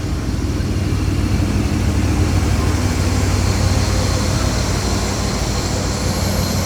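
Norfolk Southern freight train's diesel locomotive running with a steady, loud low drone.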